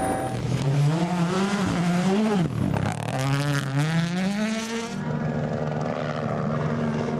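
Rally car engine at full throttle, its pitch climbing and dropping sharply with throttle and gear changes. About five seconds in, the sound cuts to a steadier engine note.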